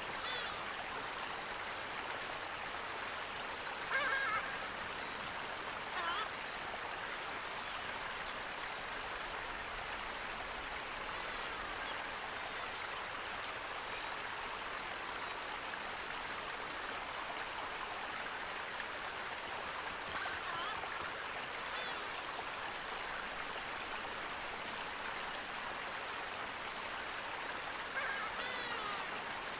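Steady rush of flowing stream water, with a few short calls from waterfowl, the loudest about four seconds in and others near six seconds, midway and near the end.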